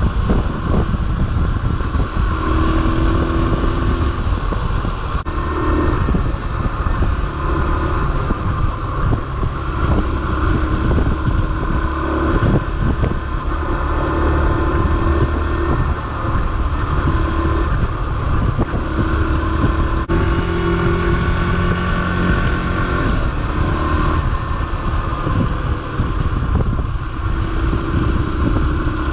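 Yamaha XTZ125's single-cylinder four-stroke engine running while the bike is ridden, its pitch stepping up and down as speed changes, over a constant low rumble.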